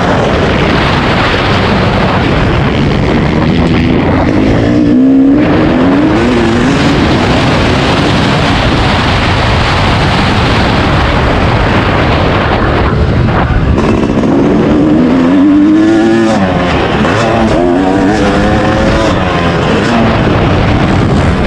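Dirt bike engine revving while being ridden on a motocross track, its pitch climbing and dropping several times, under a constant loud rush of wind on the microphone.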